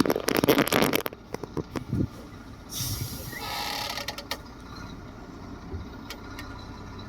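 Bulldozer's diesel engine running steadily, with a loud burst of rattling clatter in the first second and a hiss about three to four seconds in.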